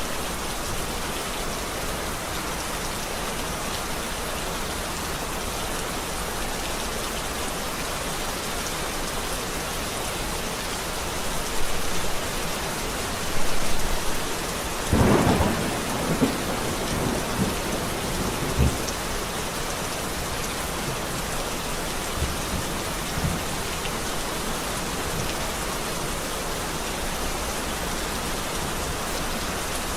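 Steady rain falling, with a roll of thunder about halfway through: several loud cracks and rumbles over a few seconds, then a couple of fainter rumbles before only the rain remains.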